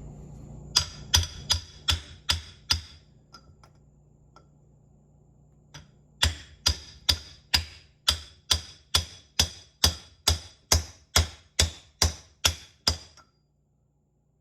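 Hammer blows on a metal driver piece, tapping a pressure seal down into a 1978 Ford power steering box housing. About six ringing metallic blows, a pause of about three seconds, then a steady run of about seventeen more at a little over two a second.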